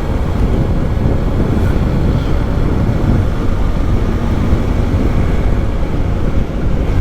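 Steady wind and road noise from a motorcycle on the move, mostly a low rumble of wind buffeting the microphone.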